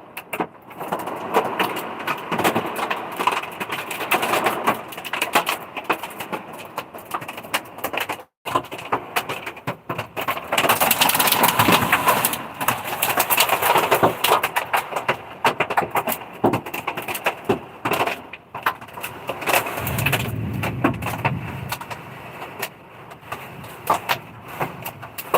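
Hail and heavy rain pelting a truck's roof and body, a dense patter of many small hard impacts. It grows heavier for a few seconds near the middle.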